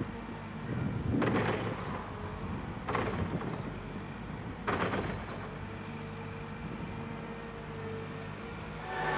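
Heavy diesel engine running steadily at low revs, broken three times by loud metallic bangs about a second and a half to two seconds apart.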